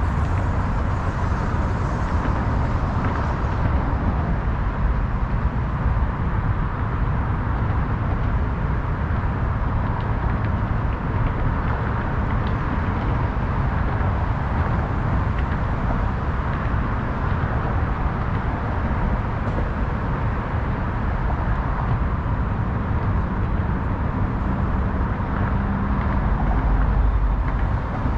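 Steady city traffic noise, a constant rumble of passing vehicles. A heavier low rumble swells near the end.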